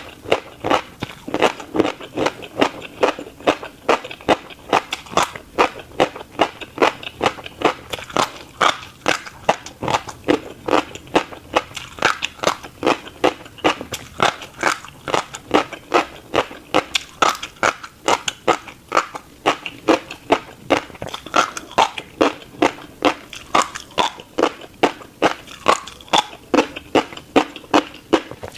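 Close-up chewing of a mouthful of tiny black seeds: a steady run of crisp, crackly crunches, about two to three a second.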